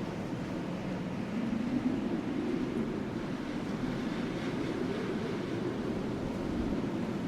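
Wind blowing in a steady low rush that swells gently, over a wood fire giving only a few faint crackles.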